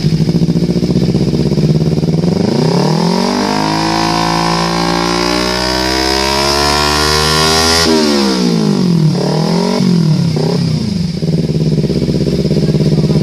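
Motorcycle engine through an AXRAPOVIC carbon-kevlar aftermarket exhaust, an Akrapovič-style slip-on. It idles, then is revved slowly up over several seconds and held high, drops back sharply, gets two quick throttle blips, and settles back to idle.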